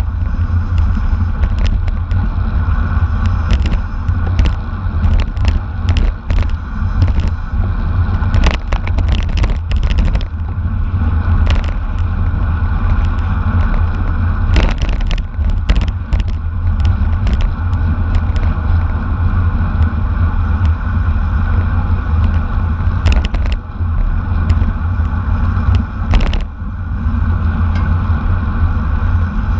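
Wind rushing over the microphone of a camera on a bicycle ridden at racing speed, a steady low rumble broken by frequent sharp clicks and rattles from the bike on the road.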